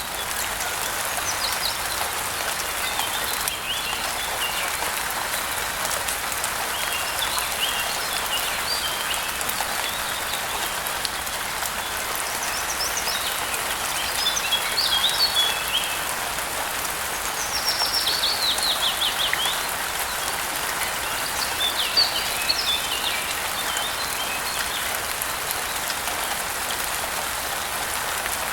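Steady rain falling, with birds chirping over it now and then; the clearest is a fast run of notes falling in pitch a little past halfway through.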